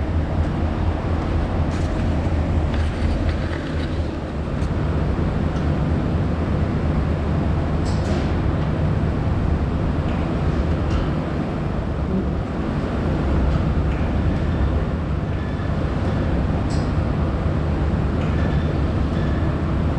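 Steady low rumble of a Scania S650's 16.4-litre V8 diesel engine running, with a few short clicks and rattles over it.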